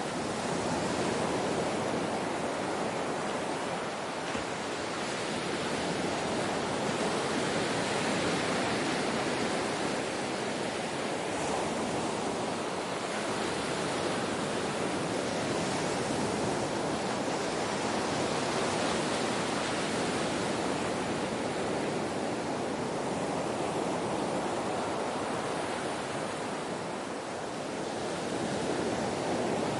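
Ocean waves washing in, a continuous rushing surf hiss that swells and eases slowly every few seconds.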